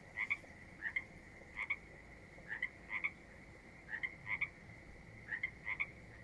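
Frogs calling: short croaks, often in pairs, repeating about twice a second over a faint steady high tone.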